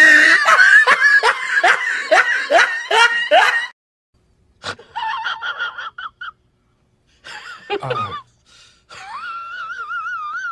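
A string of separate laugh sound effects. First comes a loud, hearty burst of rapid laughing syllables for about three and a half seconds; then, after brief silences, a few shorter laughs, the last a high, wavering wheezy laugh near the end.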